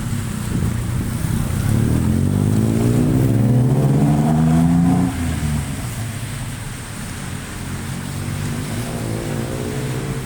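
A motor vehicle's engine revving up as it passes on a wet street, its pitch rising for a few seconds and dropping away about five seconds in, with a second, fainter one rising near the end. Steady heavy rain hisses underneath.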